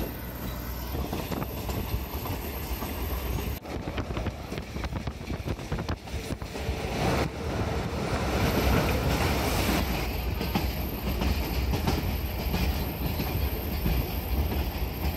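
Train running along the track: a steady rumble with wheels clacking over the rail joints, growing louder about halfway through.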